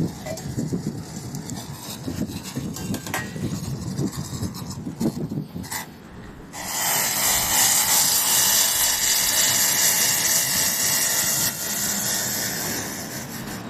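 A low uneven rumble with a few light knocks. About halfway through, a loud steady hiss starts suddenly, then eases off somewhat near the end.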